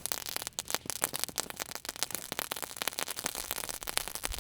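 Small firework crackling: a dense, irregular run of sharp snaps and pops that keeps going without a break.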